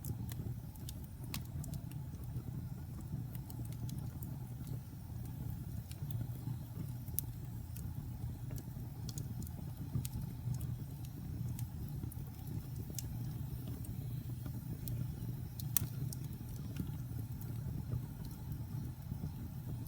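Wood fire burning in a fireplace: a steady low rumble of flames with scattered sharp crackles and pops, one louder pop about sixteen seconds in.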